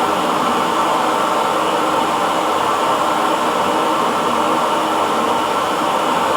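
Hair dryer blowing steadily, a continuous even whooshing hum with no change in speed.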